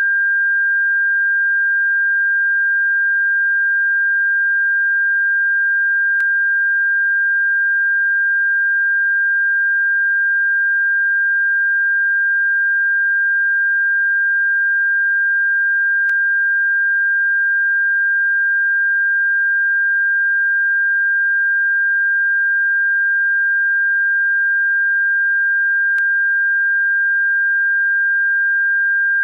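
Electronic bird-repellent tone: a single steady, high-pitched pure tone held at constant pitch and loudness, with a faint click about every ten seconds.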